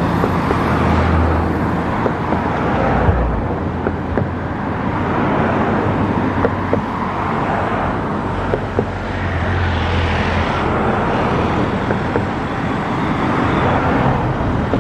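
Road traffic passing close by on a bridge, cars going past one after another in swells of tyre and engine noise. A low engine hum from one vehicle runs through most of it and stops about ten seconds in.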